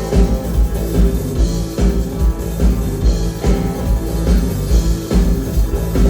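Live rock band playing an instrumental passage, the kick drum keeping a steady beat about twice a second under guitar.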